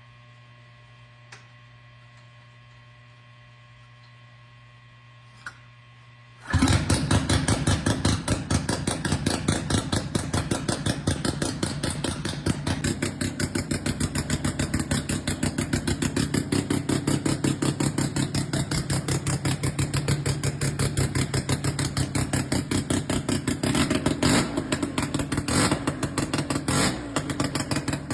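A 303 Wankel rotary engine on a custom chopper firing up abruptly about six seconds in after a couple of light clicks, then running loud with a fast, even pulsing exhaust. A few short surges of throttle come near the end.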